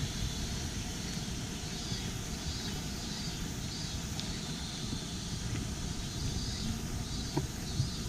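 Steady rush of flowing mountain stream water, with a few faint clicks in the second half.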